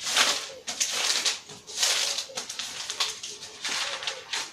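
Bible pages rustling and turning in irregular swishes while a passage is being looked up, with a pigeon cooing softly in the background.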